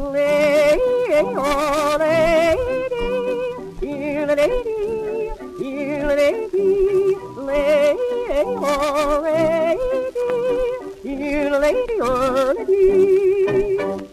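Yodeling singer on an early electrically recorded 78 rpm record, a wavering voice that keeps jumping and breaking between low and high notes over a band accompaniment. It is played at 78 rpm, which the uploader thinks sounds too fast.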